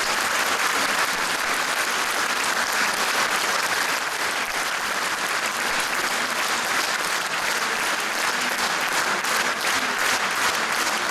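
Concert audience applauding after a song ends, steady clapping that falls into rhythmic, in-time clapping near the end.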